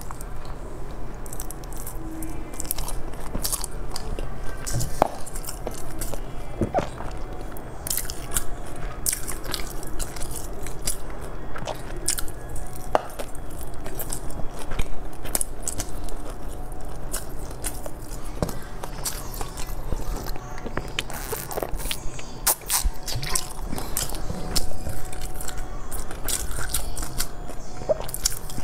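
Close-up mouth sounds of a person biting and chewing a dark rice cake, with many short wet clicks and smacks scattered throughout.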